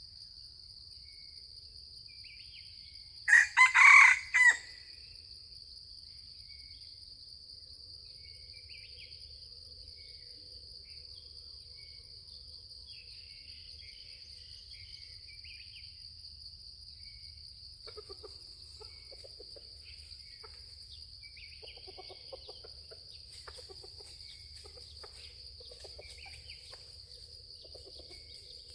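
A junglefowl rooster crows once, a short crow about three seconds in, over a steady high drone of insects. Later come soft, low, repeated clucking calls.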